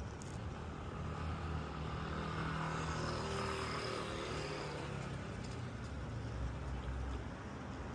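A vehicle passing by, its sound swelling to a peak about three to four seconds in and then fading, over a steady low rumble.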